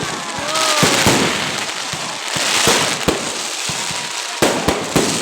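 Fireworks going off: a string of sharp bangs, about a dozen at uneven intervals, over continuous crackling.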